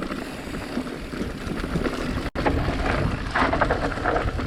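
Wind rushing over a helmet-mounted action camera's microphone, with the rattle of a mountain bike on a rough downhill trail. There is a deep, steady rumble, and the sound cuts out for an instant about two seconds in.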